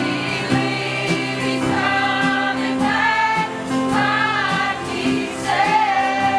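Choir singing a hymn with instrumental accompaniment: held sung notes over a steady bass line.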